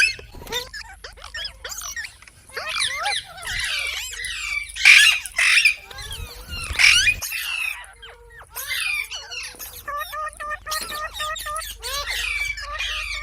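Parrot squawking and chattering in a rapid string of short, sliding calls, with a few loud harsh squawks. Past the middle comes a run of evenly spaced short notes, about four or five a second.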